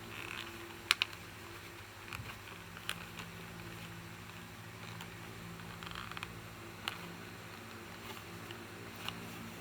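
Sparse sharp clicks and taps from plastic action figures being handled, with soft plastic rustling between them, over a steady low hum. The loudest clicks come about a second in, near three seconds, near seven seconds and just before the end.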